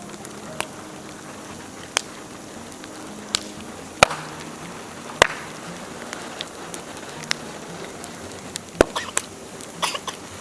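Bonfire of dry dead bamboo crackling: sharp, irregular pops about once a second over a steady hiss, the loudest a little after four and five seconds in and again near nine seconds.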